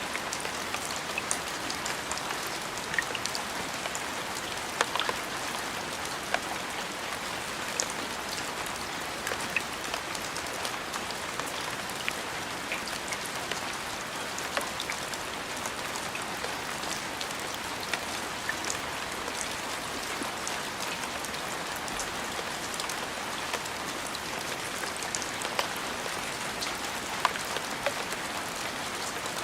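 Steady rain falling, an even hiss with many scattered individual drops ticking sharply on a surface.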